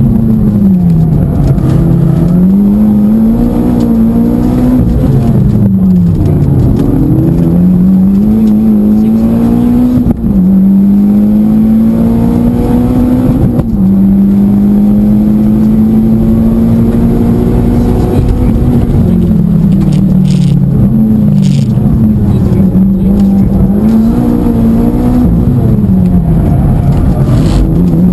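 Mitsubishi Lancer Evolution X rally car at full stage pace, heard from inside the cabin. The engine note climbs and drops sharply several times as it changes gear, then rises and falls repeatedly as the car slows near the end.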